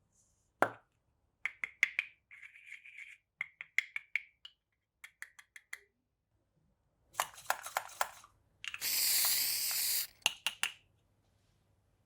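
Small plastic toy pieces being unpacked and handled: a run of sharp clicks and taps with light rattling. About nine seconds in comes a loud noisy burst lasting about a second and a half, followed by a few more clicks.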